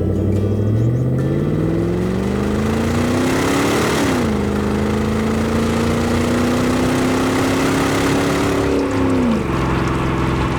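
A vehicle engine revving up steadily; its pitch drops sharply about four seconds in, then holds and creeps upward before falling back to a low idle near the end.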